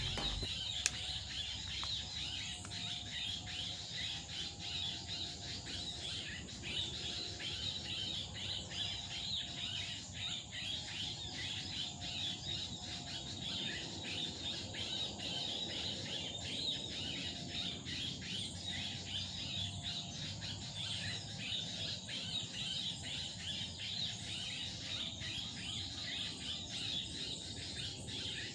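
Many small birds chirping and calling continuously, a dense run of quick high notes.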